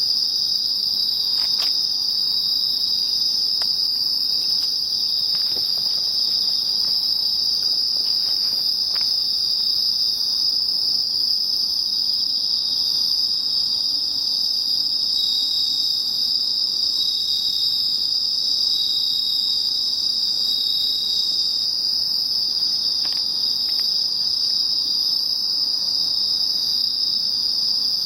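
Night chorus of autumn crickets and bell crickets (suzumushi) singing together in a steady, unbroken high-pitched trill.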